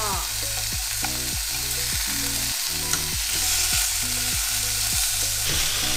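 Slices of pork belly sizzling steadily as they fry in a pan, their fat rendering out as the surface browns. Background music with a steady beat plays underneath.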